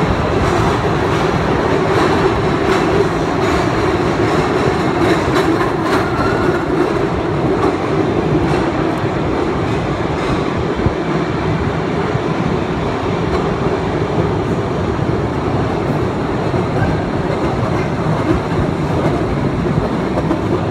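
Cave tourist train running along its track: a steady rumble of wheels and carriages, with a few clicks here and there.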